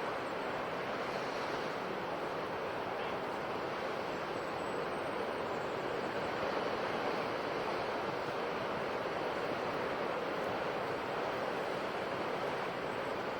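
Ocean waves breaking and washing on a shore: a continuous, steady rush of surf.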